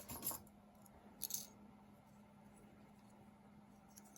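Pieces of costume jewelry clinking and rattling as they are handled and set down, twice in the first second and a half.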